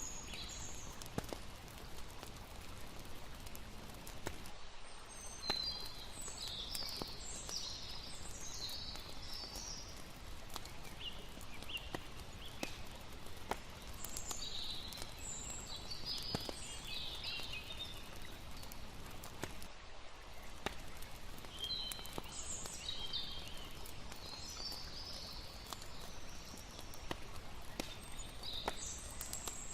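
Layered campsite night ambience: a steady wash of running water with sharp crackles and pops from a campfire scattered throughout. Clusters of high chirping calls come and go every several seconds.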